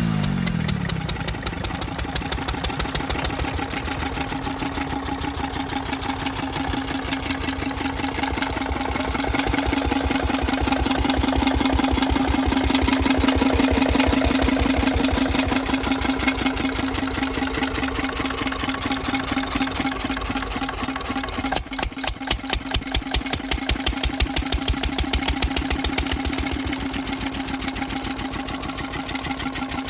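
Field Marshal Lister-type diesel engine running steadily after being started, its firing beats coming in an even, regular rhythm.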